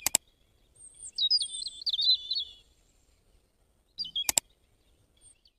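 Bird chirps and tweets in quick stepping phrases, with two sharp clicks about four seconds apart.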